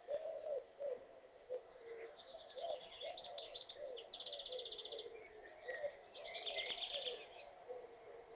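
Birds calling: a run of short, low, rounded notes about twice a second, with bursts of fast, high, rapidly repeated chirps in the middle and again near the end.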